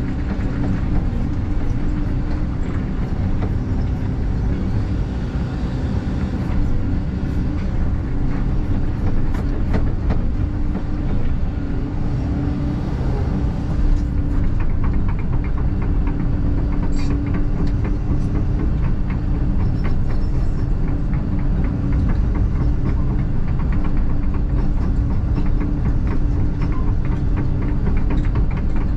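A 160-size excavator running steadily: its diesel engine holds a constant tone under the hydraulics, and from about halfway through a dense, rapid clicking and clanking joins it.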